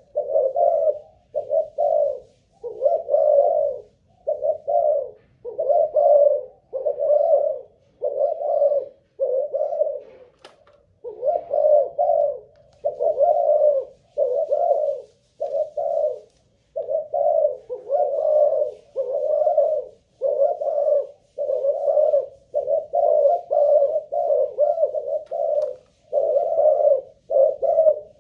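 Spotted dove (Malaysian cu gáy line) cooing on and on, a long series of short low coos about one a second with a brief pause around ten seconds in.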